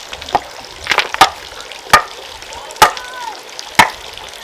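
Sharp knocks about once a second, a masonry tool striking brick or stone, with light scraping between the strikes.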